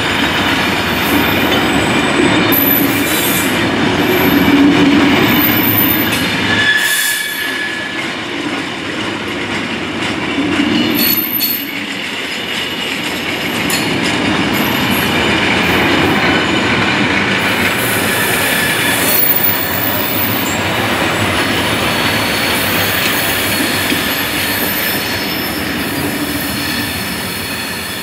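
Freight train of open box wagons rolling past on the rails: a steady rumble and rattle of wagon wheels, with a few brief high wheel squeals. It fades a little near the end as the train draws away.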